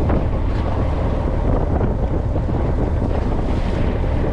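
Wind buffeting the microphone aboard a fishing boat at sea, with the wash of the waves and a steady low rumble.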